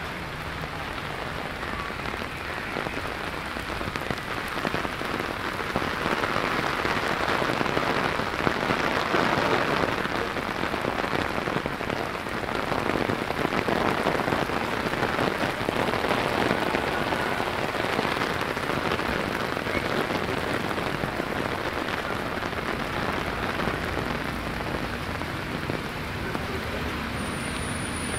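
Downpour of rain falling and splashing on the street, a steady hiss that swells louder for a while in the middle.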